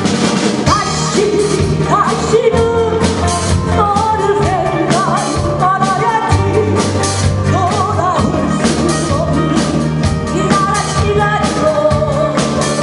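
A live amateur rock band playing, with drum kit, bass and a lead melody line that bends in pitch.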